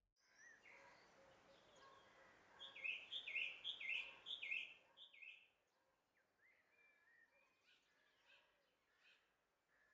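Outdoor birdsong. A songbird sings a run of about eight quick, repeated notes from about three to five seconds in, over a faint background hiss that drops away at about five seconds. Softer, scattered chirps from other birds follow.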